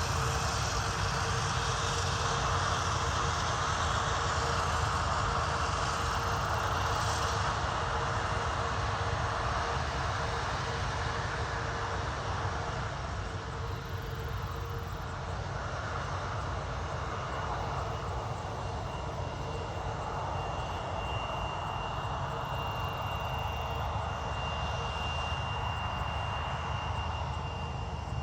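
Airliner jet engines running at an airport: a steady rushing noise with a low hum that fades about halfway through, and a thin high whine that comes in over the last third.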